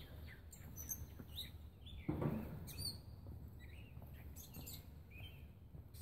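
Birds chirping, many short high chirps scattered throughout, with one dull thump about two seconds in.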